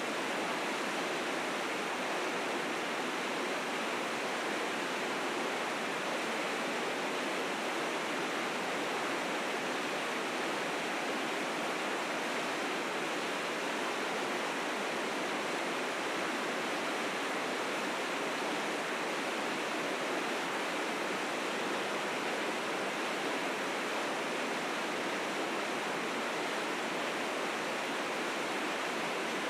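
River rapids rushing steadily, the white water swollen with spring snowmelt into fierce currents.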